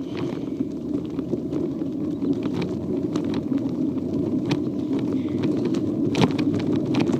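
Diamondback Cobra 20-inch kids' bike rolling along, heard from a phone mounted on its handlebars: a steady rumble of wind and tyre noise on the microphone that slowly grows louder as the bike picks up speed, with a few sharp knocks and rattles.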